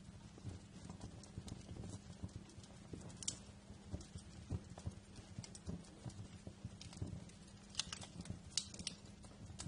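Wood fire crackling in a fireplace: irregular sharp pops and snaps over a low steady rumble of the flames, with a cluster of louder snaps near the end.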